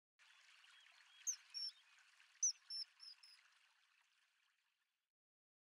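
Short, high bird chirps, about six of them in two quick clusters, over a faint hiss that fades out well before the end.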